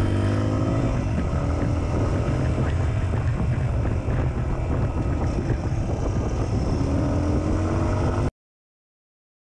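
Single-cylinder motorcycle engine running at road speed, heard from on the bike, its pitch shifting slightly with the throttle and rising near the end. The sound cuts off suddenly about eight seconds in.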